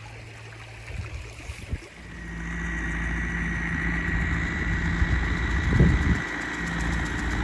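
Tractor engine running steadily, coming up in level about two seconds in, with a constant high whine over it. A couple of light knocks come before it, and a brief louder thump near the end.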